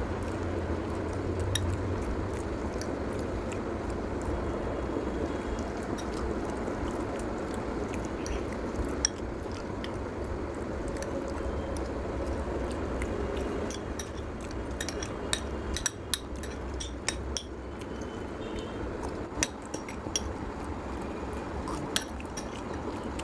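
Cutlery clinking and scraping on plates of noodles during fast eating: a scatter of short clicks, more frequent in the second half, over a steady low hum.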